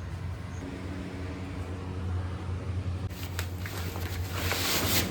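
Sonalika DI 35 tractor's diesel engine running steadily at low speed. A burst of hissing noise builds over the last two seconds and is the loudest sound.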